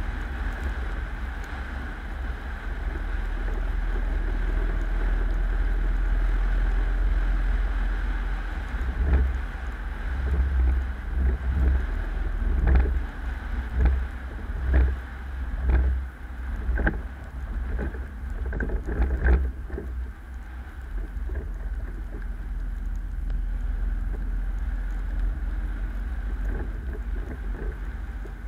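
Car driving, heard through an action camera: a steady low rumble of road and engine noise. From about nine to twenty seconds in, a run of irregular knocks and thumps comes through.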